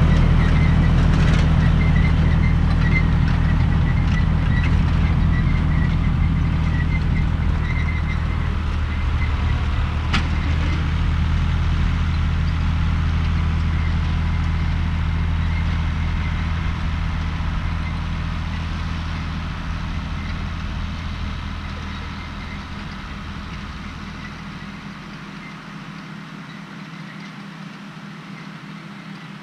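John Deere 1030's three-cylinder diesel engine running steadily as the tractor drives a hay tedder, fading away over the last few seconds as it moves off.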